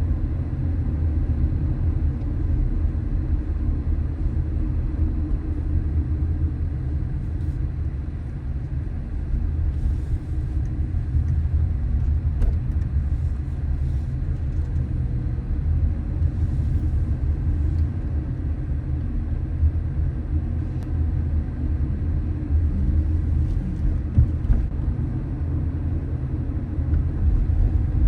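A car driving along a street: a steady low rumble of road and engine noise.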